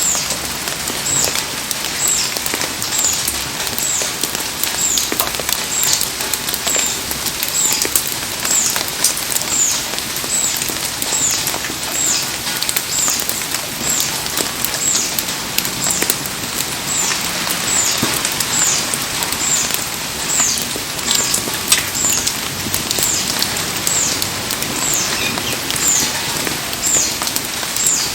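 Heavy rain falling steadily around a burning campfire, with frequent sharp pops and crackles. A high, short, falling chirp repeats about once a second.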